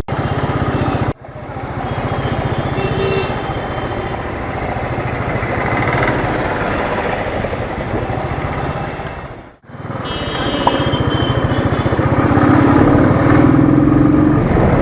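Royal Enfield Thunderbird's single-cylinder engine running on the move, with road and traffic noise. The sound cuts out abruptly twice, about a second in and again near ten seconds.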